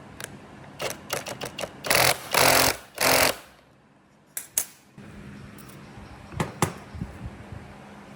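Workshop tool sounds: a run of sharp clicks and knocks, then three short, loud bursts of rushing noise in quick succession, followed by a few more scattered clicks.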